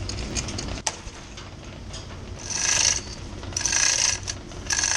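Manual chain hoist being worked to lift a heavy load, its chain and ratchet rasping through in three short strokes about a second apart.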